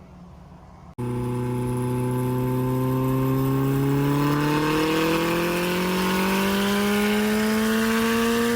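Built Subaru WRX STI's turbocharged EJ257 2.5-litre flat-four with a hood-exit exhaust, pulling hard under a long steady acceleration, its pitch rising slowly and evenly. The engine starts abruptly about a second in after a quiet moment.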